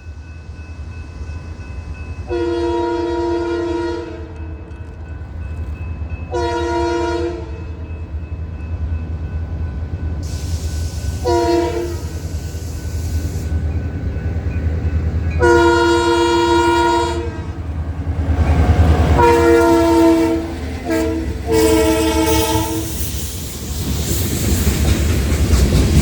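Locomotive horn blowing the grade-crossing signal, long, long, short, long, then three more quick blasts, over the steady low rumble of the approaching train. Near the end the rushing noise of the train passing grows louder.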